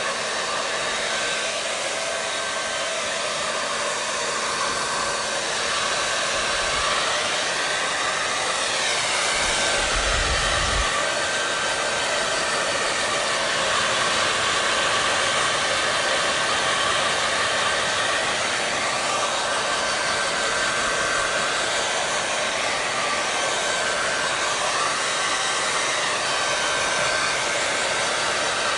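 Hair dryer blowing steadily: a constant rush of air with a faint steady whine, its tone shifting slowly back and forth now and then.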